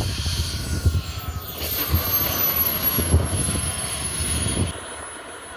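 Small propeller airplane's engine running as the plane flies past, its high tone falling slowly in pitch. Wind buffets the microphone until near the end.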